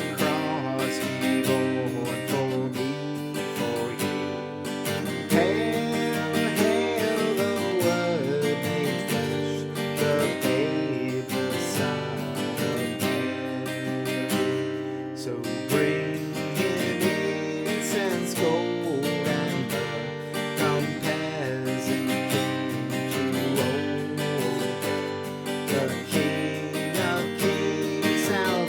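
Seagull S6 mahogany acoustic guitar being strummed, playing a steady chord accompaniment.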